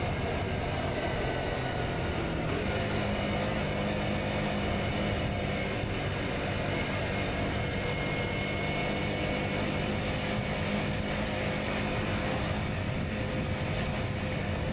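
KTM Duke 125's single-cylinder engine running steadily under way, with wind rushing past; the engine note steps down about two and a half seconds in, then holds steady.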